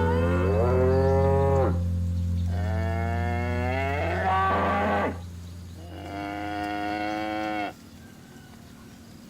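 Cows mooing: three long moos in turn, the first rising in pitch near its start, the last ending about three-quarters of the way through.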